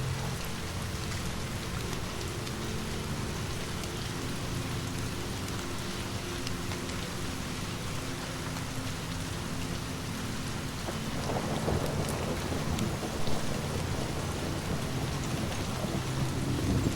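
Steady rain falling, with a low rumble of distant thunder swelling in about two-thirds of the way through. Occasional small crackles of a wood fire sit under the rain.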